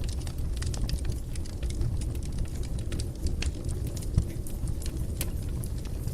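Wood fire burning in a fireplace: a steady low rumble of flames with irregular sharp crackles and snaps, and one louder low pop about four seconds in.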